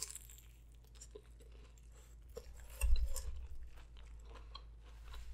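Close-miked chewing of Hot Cheeto-crusted food, with scattered small crunches and mouth clicks. A dull low thump comes about three seconds in.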